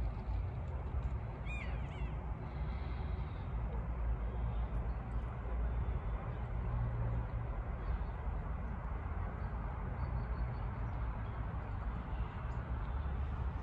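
A steady low rumble with a noisy hiss, and a single short bird call that falls in pitch about one and a half seconds in.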